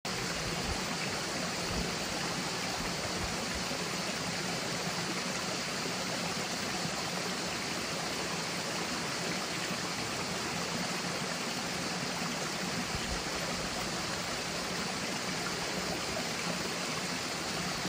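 Flowing water of a stream, a steady, even rush.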